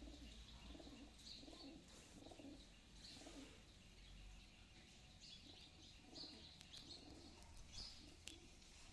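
Pigeons cooing faintly in a run of low, repeated coos, with the short chirps of sparrows over them.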